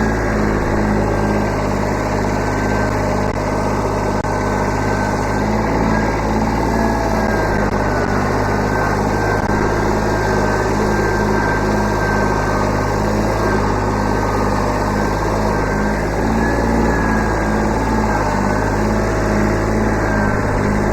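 Kubota B7100 subcompact tractor's small three-cylinder diesel engine running steadily, its pitch wavering only slightly.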